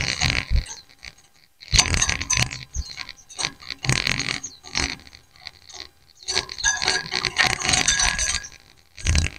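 A group of white-eyes (pleci) calling back and forth in bursts of rapid, high, clinking chirps, about five bursts with short gaps between them.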